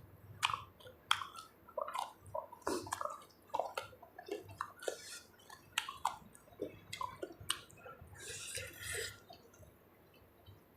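Close-miked chewing and mouth sounds of a person eating spicy seafood papaya salad, with many short, irregular clicks.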